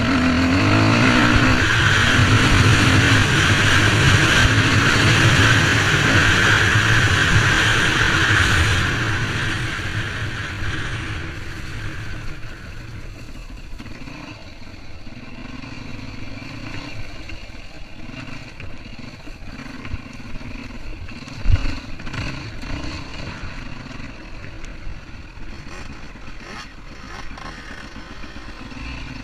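Motorcycle engine running loud, then fading away over a few seconds to a quieter, distant running sound. One sharp thump comes about two-thirds of the way through.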